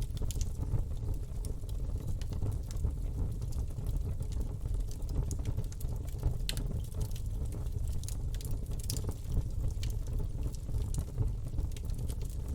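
Campfire burning: a steady low rumble of flames under scattered, irregular crackles and pops of burning wood.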